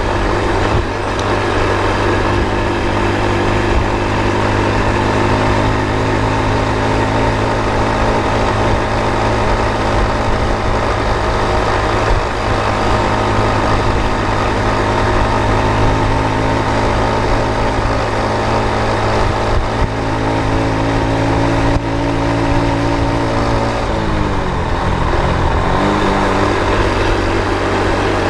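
Motor vehicle engine running steadily while driving. About 24 seconds in its pitch drops and then climbs back up a couple of seconds later.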